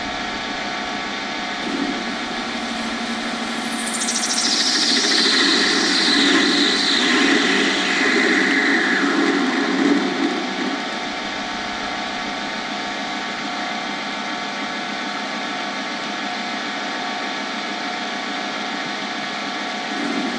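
Lathe running steadily while a tool faces off the end of an acrylic blank. From about two to eleven seconds in the cutting is louder, with a high whine falling steadily in pitch. After that only the lathe's steady hum remains.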